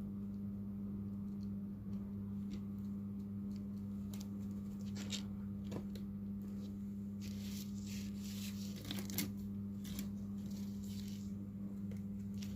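Small scrapes, clicks and rustles from hand work on a phone during a display repair, most of them in the middle and later part, over a steady low electrical hum.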